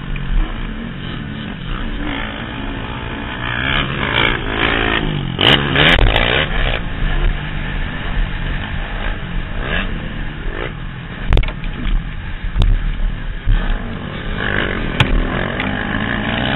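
Motocross bike engine heard from the rider's helmet, revving up and falling back repeatedly as it is ridden round the track, with wind rumble on the microphone. Sharp clattering knocks come through, loudest in a cluster about five to seven seconds in.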